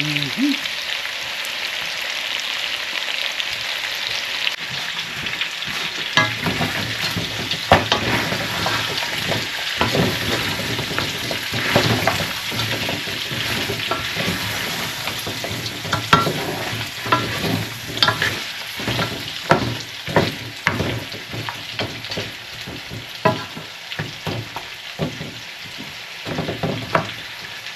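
Pig feet frying in oil in a Dutch pot with a steady sizzle. From about six seconds in, a utensil stirs them, knocking and scraping against the pot many times, and the sizzle dies down toward the end.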